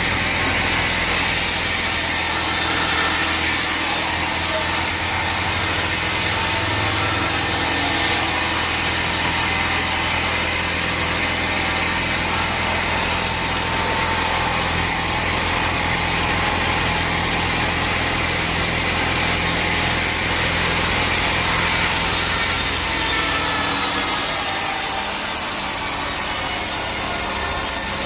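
Band sawmill machinery running steadily: a constant motor hum under loud whirring noise. The high part of the noise changes about eight seconds in and again near twenty-two seconds.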